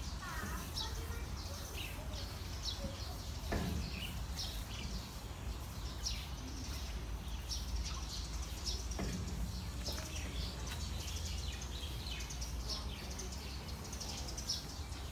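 Birds chirping repeatedly in short, high calls over a steady low rumble, with two louder downward-sliding sounds about three and a half and nine seconds in.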